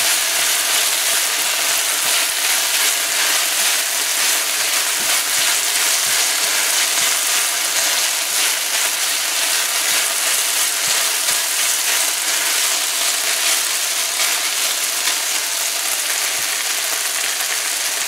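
Rice frying over low heat in ghee and sugar in a nonstick pan: a steady crackling sizzle while a silicone spatula stirs it.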